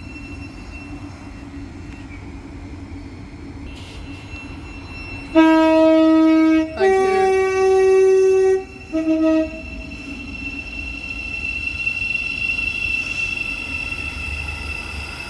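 Two-tone horn of a Class 717 electric multiple unit: a low note for about a second and a half, a higher note for about two seconds, then a short low note, over the steady running noise of the train.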